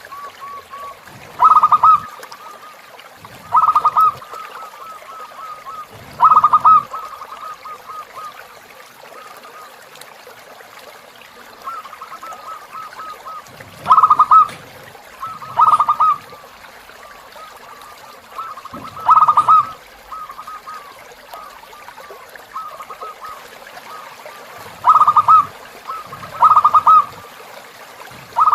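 Zebra dove (perkutut) cooing: a steady run of soft, quick staccato notes, broken by about eight much louder short bursts of coos a few seconds apart. Faint trickling river water runs underneath.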